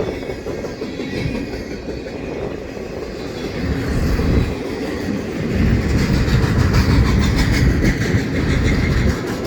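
Norfolk Southern intermodal freight train passing close by: a low rumble that grows louder about halfway through, with the wheels clacking regularly over the rail joints in the second half.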